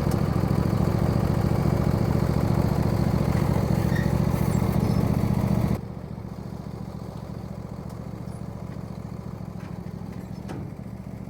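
Lawn tractor engine running steadily, its level dropping sharply about halfway through and carrying on more quietly.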